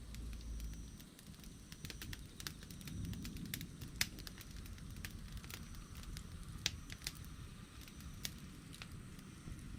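Wood campfire burning, with irregular sharp crackles and pops over a low rumble of the flames, the loudest pops about four and seven seconds in.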